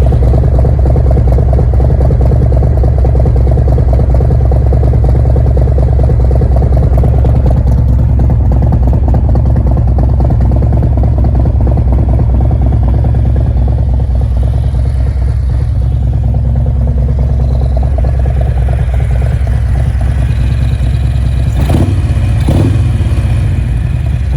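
Harley-Davidson Road Glide's Milwaukee-Eight 114 V-twin, fitted with torque cams, running loud and steady through a full Khrome Werks exhaust system. Two brief knocks come near the end.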